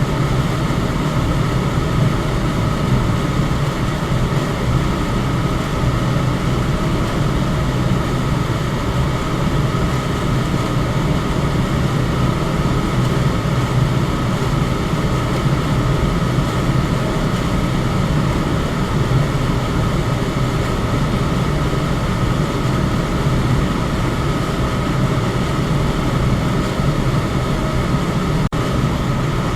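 Electric fan running steadily: a constant whoosh of moving air over a low motor hum. It dips out for an instant about a second before the end.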